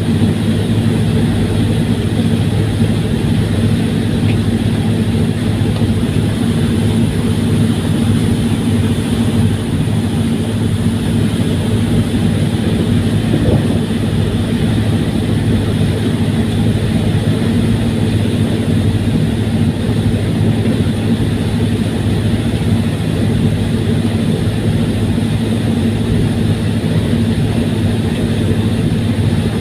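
Fast ferry's engines running at a steady drone, with a constant low hum and a wash of hiss that holds unchanged throughout.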